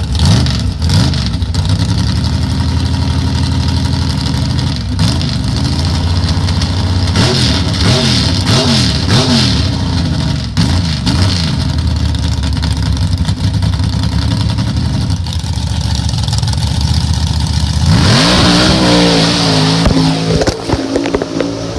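Mega mud truck's engine running hard, revving up and down several times, with a fresh climb in revs near the end.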